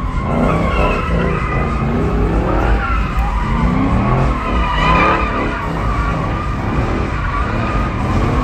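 Car tires squealing over a loud running engine, the squeal wavering in pitch and swelling about five seconds in.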